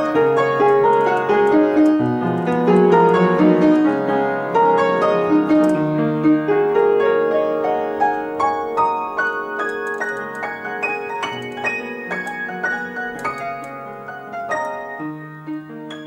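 Solo piano playing an original piece, many notes sounding in close succession and growing gradually quieter.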